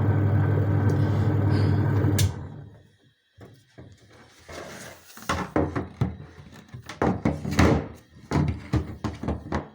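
Twin-tub washing machine's wash motor running with a steady low hum that cuts off about two seconds in, followed by a scattered series of knocks and clunks, like plastic parts and the lid being handled.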